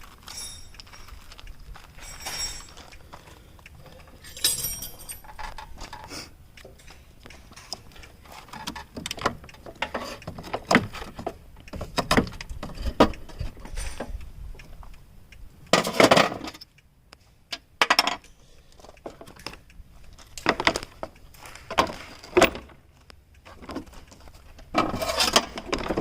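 Irregular metallic clinks, knocks and clatter from hands and tools working on the car, with louder bursts of rattling now and then.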